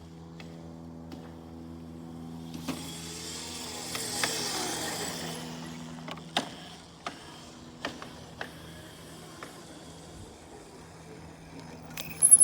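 Small dirt bike's motor running with a steady hum, its pitch gliding up and down with a rush of hiss a few seconds in. Several sharp clicks or knocks in the second half.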